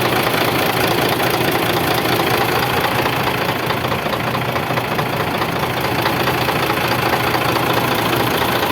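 2007 Nissan CWB truck's diesel engine idling steadily.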